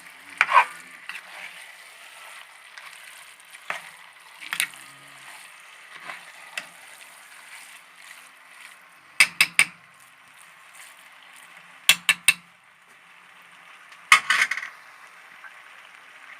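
A utensil stirring and knocking against a pan of sizzling mallow greens over a steady low hiss. Single clicks come every few seconds, with quick clusters of two or three clinks later on.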